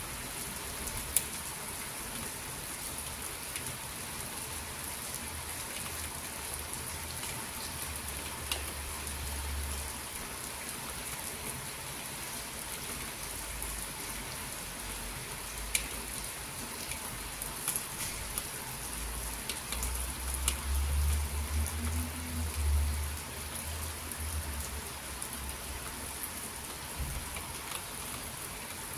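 Steady rain falling on a wet asphalt street: an even hiss with scattered sharp ticks of nearby drops. A low rumble swells twice, about a quarter of the way through and more strongly past the middle.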